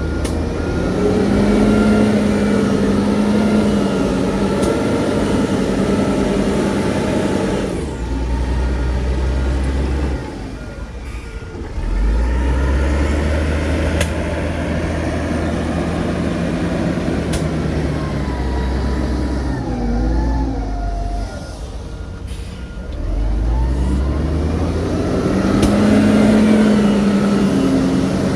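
Heavy diesel earthmoving machinery working: engines rev up, hold under load and drop back, three times over. A reversing alarm beeps in short stretches.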